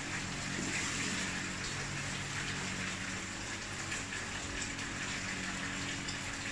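Water running steadily into a sink, a continuous even splashing rush.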